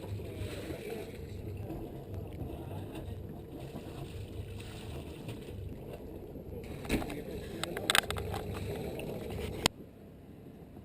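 Steady low rumble aboard a sailing yacht under way, with a few sharp clicks about seven and eight seconds in; the rumble cuts off abruptly near the end.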